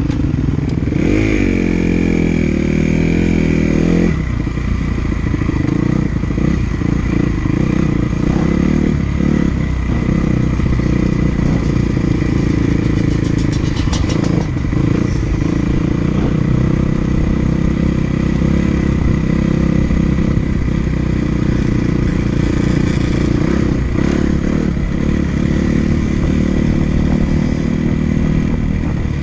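Motocross dirt bike engine revving up and down continuously as it is ridden hard round a sand track, the pitch rising and falling with the throttle and gear changes.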